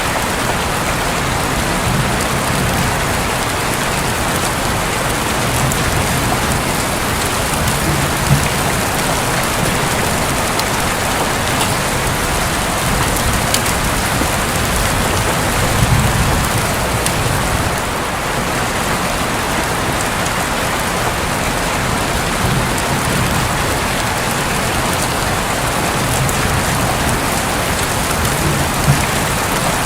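Steady heavy rain drumming on a roof, with a few brief low rumbles of thunder rising under it.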